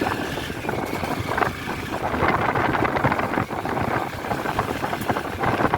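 Honda CB200X's 184 cc air-cooled single-cylinder four-stroke engine running while the motorcycle is ridden, with wind noise on the microphone.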